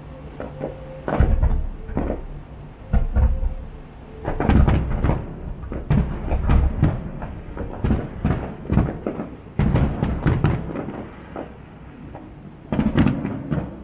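Aerial fireworks shells bursting in quick succession: irregular bangs, several coming in tight clusters, each trailing off in a short echo.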